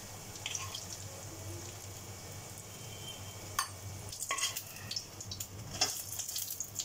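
Batter-coated raw banana slices sizzling in hot oil in a kadhai, a steady crackling hiss. From about three and a half seconds in, a utensil clicks and scrapes against the pan several times as the fried pieces are lifted out.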